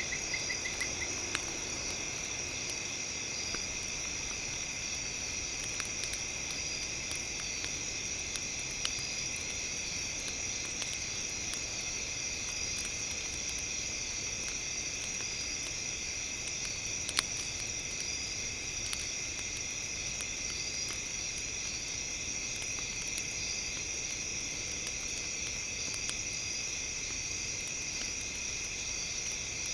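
Campfire crackling, with scattered small pops and one sharper pop about halfway through, over a steady high-pitched chirring.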